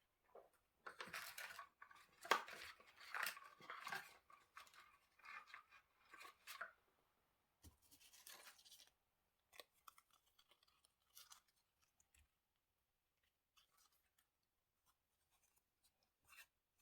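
Quiet paper-craft handling sounds: paper rustling, scraping and crinkling, busiest in the first seven seconds, with another short burst near eight seconds, then scattered light taps and clicks.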